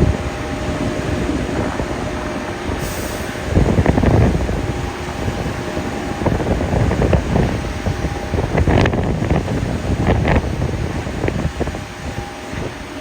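Construction machinery running with a continuous low rumble and a faint steady hum, rising in louder irregular surges with a few short scrapes and knocks.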